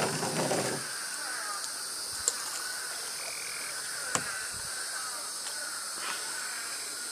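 Frog chorus calling over a steady high hiss of night insects. A brief rush of noise at the start and two sharp knocks, about two and four seconds in, cut through it.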